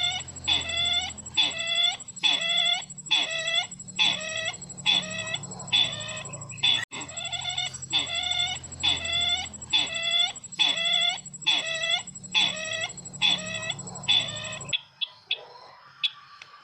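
Call of the sisintar ladang bird played as a looped lure recording: one short curved call repeated about every 0.6 s, steady and even, which stops about 15 seconds in.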